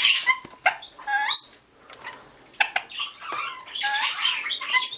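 Caged pet birds, small parrots, chirping and chattering in quick high calls, with one rising call about a second in.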